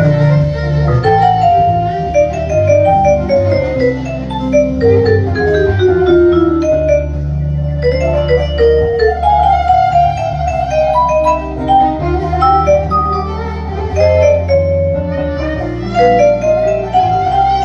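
Instrumental Turkish music: a kanun plays fast descending plucked runs over a steady bass guitar and drums.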